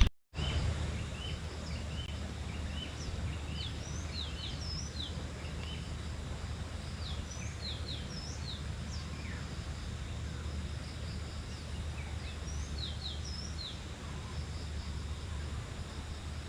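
Birds chirping in quick, short, downward-sweeping notes, scattered in clusters, over a steady low rumble of outdoor background noise.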